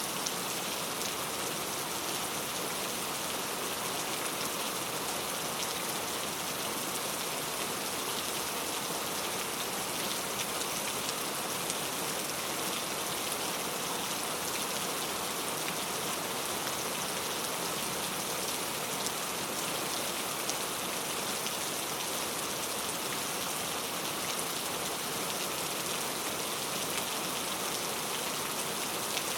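Steady heavy rain falling, a constant hiss with scattered drop patters.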